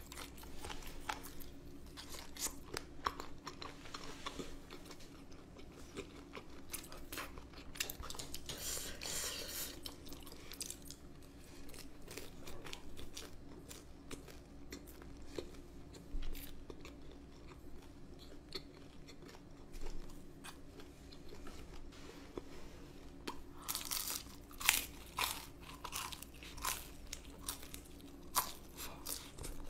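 A person eating close to a microphone: crisp crunching bites and chewing of deep-fried chicken gizzards and spicy boneless chicken feet. The crunches come in loose runs, densest about eight seconds in and again from about 24 seconds on, over a faint steady hum.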